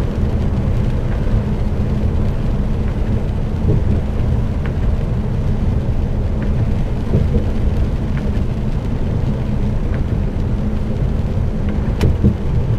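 Steady low rumble inside a lorry cab at motorway speed: the truck's engine drone and tyre noise on a wet road. There are a few faint ticks and one sharper click near the end.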